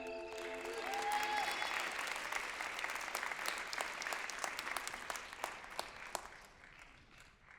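Audience applauding as the music's last notes die away, the clapping thinning out and fading to nothing near the end.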